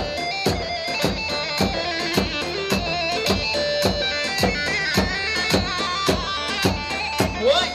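Instrumental halay dance music from a wedding band: a melody line over a steady, driving drum beat of about two strokes a second, with a few sliding notes near the end.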